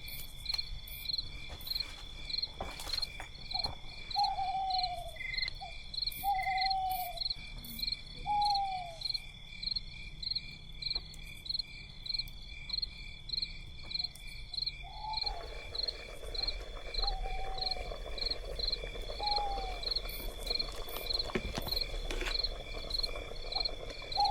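Insects, crickets by their sound, trilling steadily in a high, evenly pulsing chorus. A short call drops in pitch and repeats about every two seconds. About two-thirds of the way through, a steady hiss joins in.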